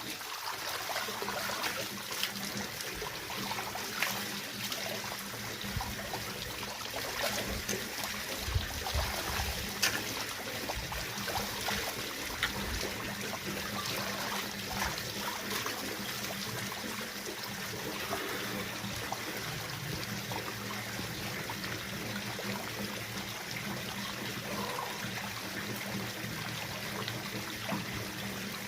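Water running and trickling steadily, like a small stream, with a few faint clicks and knocks between about 4 and 10 seconds in.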